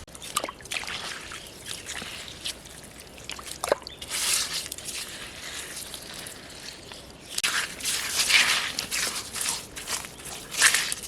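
Water sloshing and dripping in irregular bursts, with wet squishing handling sounds.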